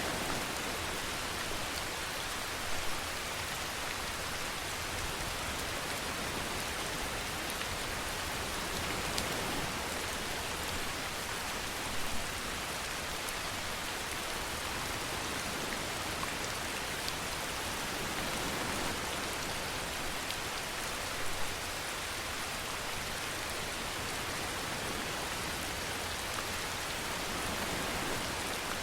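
Steady rainfall: an even hiss of rain with drops pattering on a surface, and a few slightly louder drop hits scattered through it.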